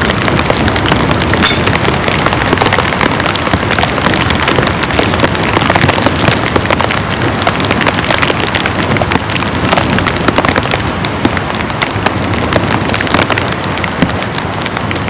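Heavy, steady rain, with a dense patter of individual drops striking close by.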